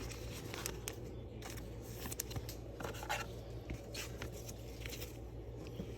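Trading cards being slid into soft plastic penny sleeves and handled, giving light, scattered scraping and rustling sounds over a steady low hum.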